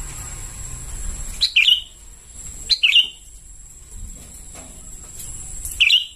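Juvenile sooty-headed bulbul (kutilang) calling: three short, sharp chirps, about a second and a half in, near three seconds, and just before the end.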